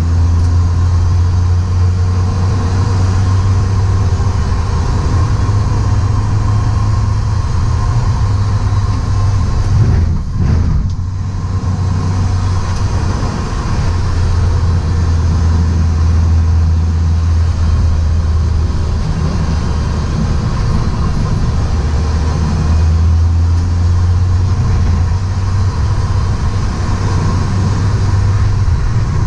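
BMW E36 Compact's engine running under load at track pace, heard from inside the cabin along with tyre and road noise as a steady low drone. The drone dips briefly about ten seconds in, then picks up again.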